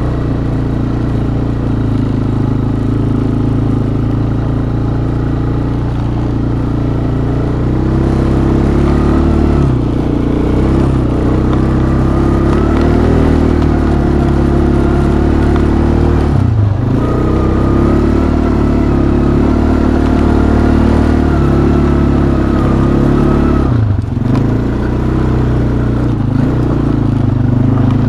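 2007 Arctic Cat 250cc utility ATV engine running at light throttle while the quad is driven through snow. The engine note wavers slightly, with two brief drops about 17 and 24 seconds in.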